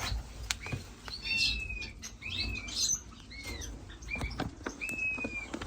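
Small caged finches calling with scattered short chirps and two longer drawn-out high notes, among light clicks and wing flutters as they hop about the cage.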